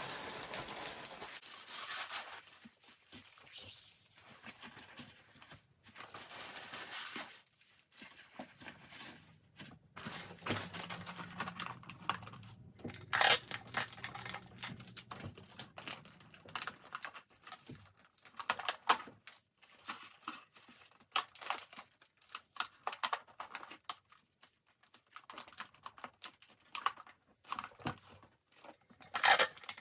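Easter basket grass being handled and pressed into place, irregular crinkly rustling and crackling with two louder crackles, one about halfway through and one near the end.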